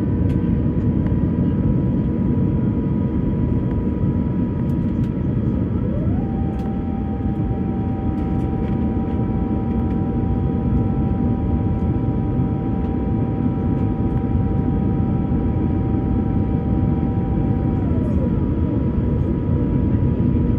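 Airbus A350-1000's Rolls-Royce Trent XWB engines running steadily at low power, heard inside the passenger cabin as a deep rumble with faint steady tones over it. A whine rises about six seconds in, holds, and falls away again about twelve seconds later.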